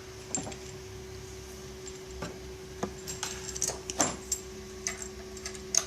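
Scattered clicks and light metallic taps of coax cable jumpers and connectors being handled and fitted, over a steady low hum.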